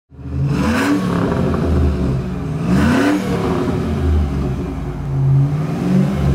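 2004 Chevrolet SSR's 5.3-litre V8 revved twice, each blip rising in pitch, about half a second and three seconds in, then settling back to run steadily.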